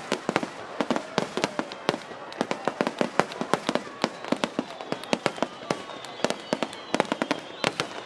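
Fireworks going off in rapid, irregular succession: many sharp bangs and cracks a second, overlapping with no pause.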